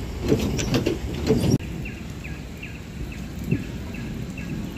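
Sharp clicks and knocks for about the first second and a half, cutting off suddenly. Then a steady low rumble, over which a bird chirps repeatedly in short falling notes, about two a second.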